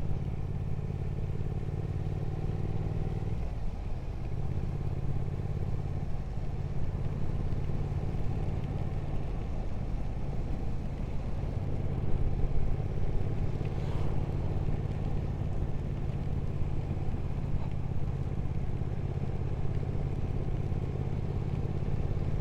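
Motorcycle engine running steadily at road speed under a rushing of wind and road noise. The engine note shifts about three seconds in, then holds steady.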